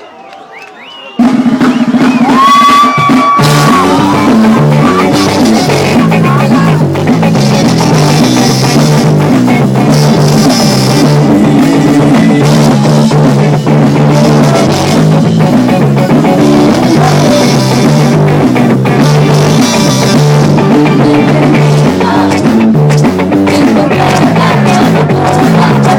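Loud rock music with a drum kit, bass drum and a rhythmic low bass line, kicking in about a second in after a brief quieter moment.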